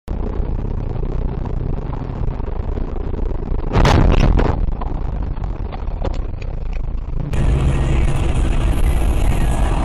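Steady car road and engine rumble, broken about four seconds in by a loud, noisy crash lasting under a second, followed by a few sharp knocks. The rumble carries on louder afterwards.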